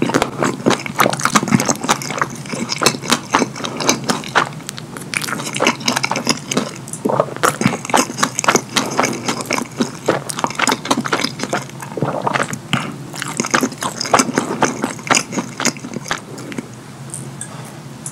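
Close-miked open-mouth chewing and lip smacking of a cheese-sauce-covered double cheeseburger: a dense run of quick, sticky smacks and clicks. It thins out and gets quieter near the end.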